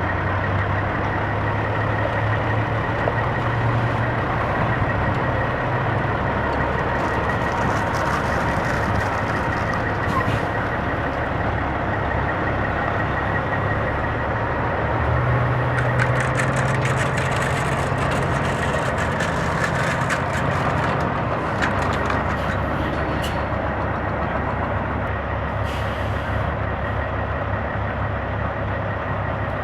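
Semi-truck diesel engines running steadily amid a constant rushing noise; the low engine note steps up for several seconds around the middle and then settles back.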